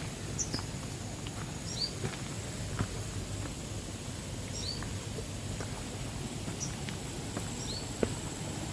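Rainforest ambience: a steady high insect drone, with short high chirps, often in quick pairs, every second or few. Scattered light ticks and crackles.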